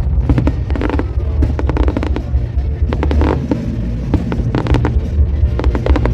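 Aerial fireworks going off: clusters of sharp crackling bursts every second or two over a continuous deep rumble of shell booms.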